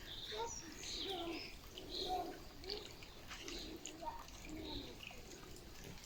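Birds singing and calling, with short high chirps over short, low, arched calls that repeat every half second or so.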